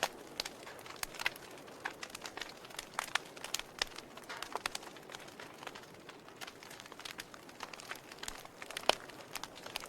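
Log fire crackling in a fireplace: irregular sharp pops and snaps over a soft hiss, with one louder pop near the end.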